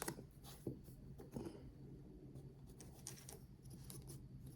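Faint, scattered small clicks and taps of a tiny screw being handled and fitted onto a PCIe NVMe adapter card.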